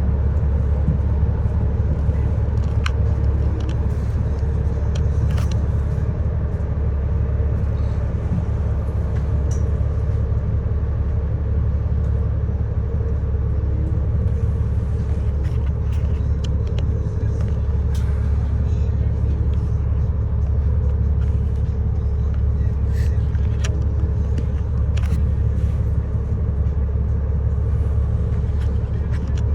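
City bus under way, heard from inside the passenger cabin: a steady low engine and road rumble with a faint steady whine, and scattered small rattles and clicks.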